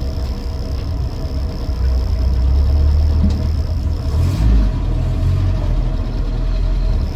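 1966 Land Rover Series IIa 88-inch's 2.25-litre four-cylinder petrol engine running as the vehicle pulls away, growing louder about two seconds in. The driver calls it pretty sweet but suspects a very minor exhaust manifold blow, heard as a slight occasional chirping.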